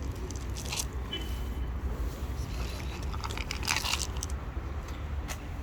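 A kitten chewing food, with short crisp crunches in a few clusters. A steady low rumble runs underneath.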